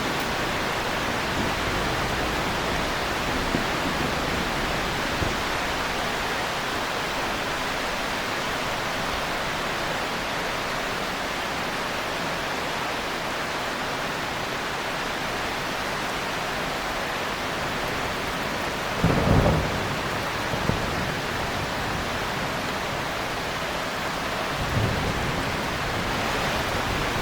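Steady heavy rain with a short, louder rumble of thunder about two-thirds of the way through and a fainter one near the end.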